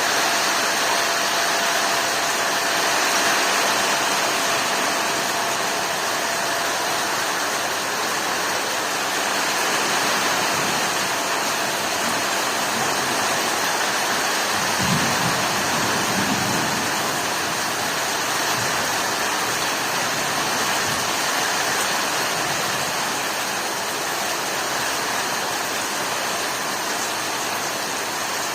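Heavy rain pouring steadily, a dense even hiss, with a brief low rumble about halfway through.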